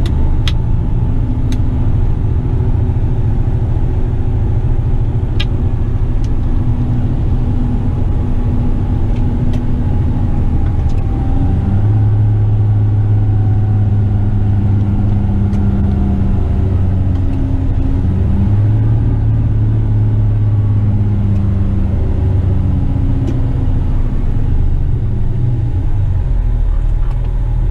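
Western Star tipper truck's diesel engine running on the road, heard from inside the cab: a steady low drone whose pitch shifts a couple of times, with a few light ticks.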